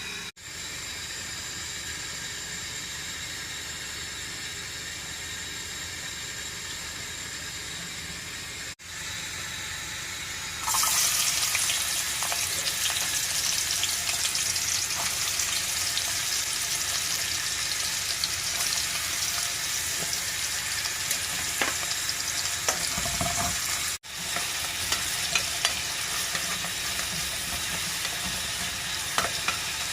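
Food frying in a hot pan: a steady hiss that turns into much louder, crackling sizzling about ten seconds in, with occasional sharp ticks.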